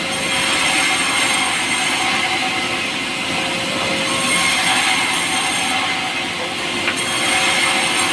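Power saw cutting pulai wood, a light, soft timber that saws easily. The saw runs steadily with a high whine over the cutting noise, and the cut brightens and eases every couple of seconds.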